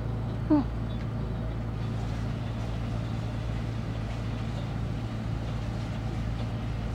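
Steady low engine drone of a boat's motor running, even throughout.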